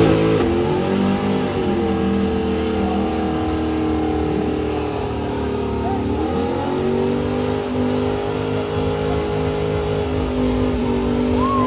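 A car or truck engine revving hard: the pitch falls and climbs again in the first couple of seconds, dips once more partway through, then holds at a steady high rpm.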